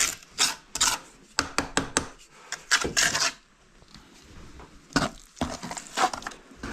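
Bricklaying work on a masonry stove: a quick run of short scrapes and light knocks of brick and mortar, a pause, then a few more strokes near the end.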